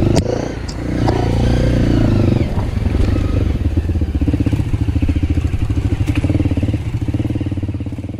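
Dirt bike engine running while riding, easing off briefly about a second in, then pulling steadily again, with a few light clicks and clatter. The engine sound fades away near the end.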